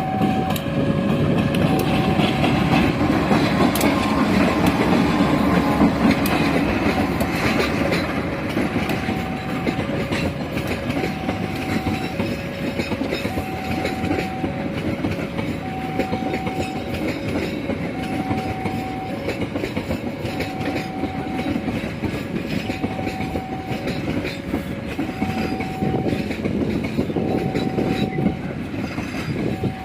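A train passing close by with a dense rumble and clickety-clack of wheels over the rail joints, loudest in the first several seconds. Through it a level-crossing alarm sounds, an electronic beep alternating between a high and a low tone.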